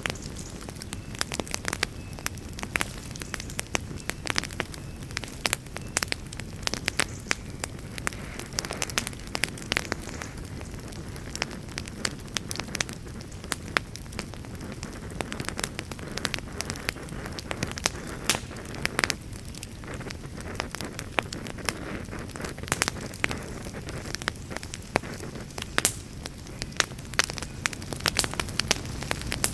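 Wood campfire crackling, with frequent irregular sharp pops and snaps over a steady low rush.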